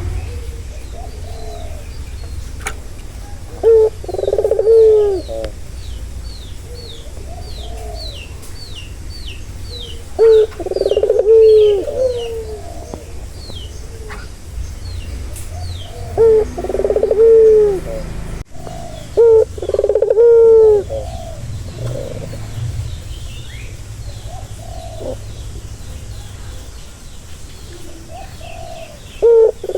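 Male ringneck dove (burung puter) cooing: a short note then a longer rolling coo, repeated about five times at intervals of several seconds. A smaller bird chirps quickly, about two high notes a second, through much of the first half, over a steady low rumble.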